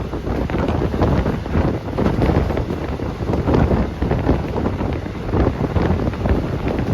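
Wind buffeting the phone's microphone: a steady, rough rumble with irregular gusty flutter.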